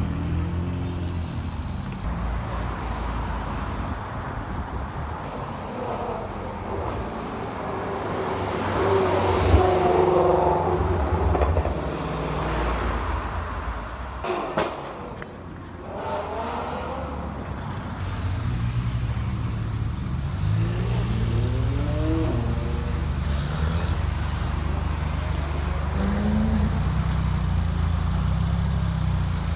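Car engines running, with the revs rising several times as cars accelerate through the gears; the loudest is about ten seconds in, and a steady engine drone carries through the later part.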